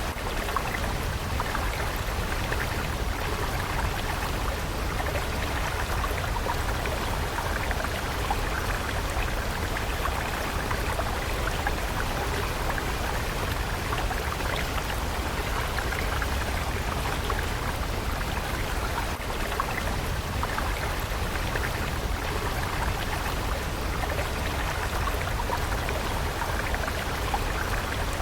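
Flowing water stream: a steady rush with constant small splashing and trickling detail.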